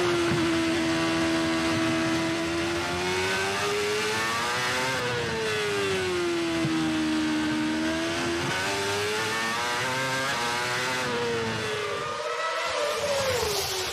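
Racing car running hard, its pitch sweeping up and down several times with speed, with a short rise and fall near the end.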